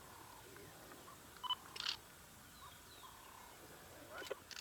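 Two short sharp clicks about a second and a half in, and a few more near the end, over a faint outdoor background with soft bird chirps.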